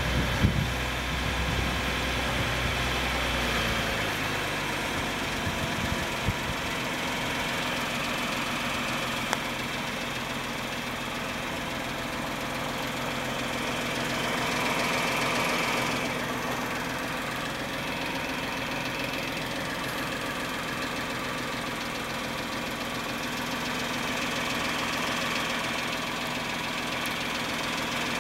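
Ford 3.7-litre V6 of a 2011 Mustang idling after a cold start, with a loud tick that sounds like an old diesel engine; the low rumble eases about four seconds in. The tick is the cold-start tick from the cylinder head covered by a Ford technical service bulletin.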